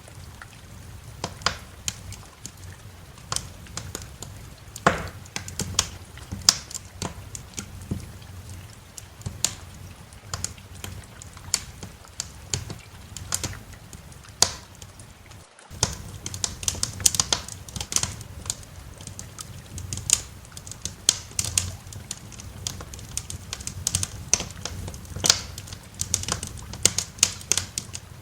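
Wood fire in a fireplace crackling, with irregular sharp pops and snaps over a steady low rumble. The sound drops out for an instant just past halfway, then carries on with denser crackling.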